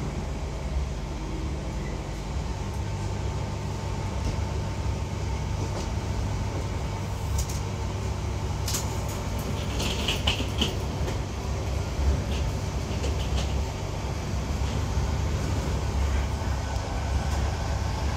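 Class 323 electric multiple unit heard from inside the passenger saloon: a steady low rumble of the train running, with scattered clicks and rattles in the middle.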